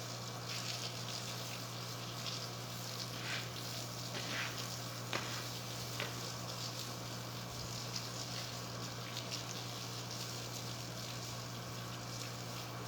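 Blowing sand from a sandstorm, a steady crackling hiss with scattered sharp ticks, over a steady low hum.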